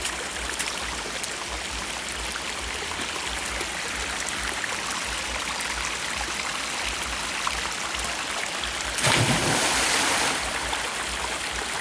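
Steady rush of a waterfall pouring into a pool. About nine seconds in comes a louder splash lasting just over a second, as a person jumps and lands in the water.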